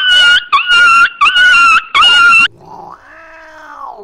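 Cat yowling loudly: four high, flat-pitched yowls in quick succession, then a quieter drawn-out call that falls in pitch near the end.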